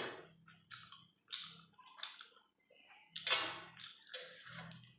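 Open-mouthed chewing and lip-smacking of roti and chicken curry, with fingers tearing roti in a steel plate: a string of short smacks and clicks, the loudest a little past the middle.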